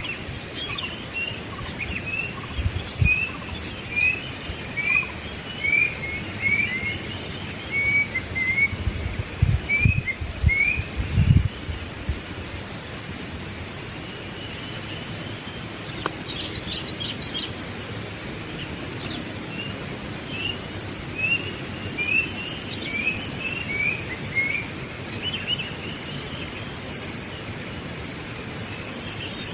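Wild songbird calling a repeated series of short chirp notes, about two a second, in two bouts, over a steady high insect drone. A few low thumps come in around the middle of the first bout.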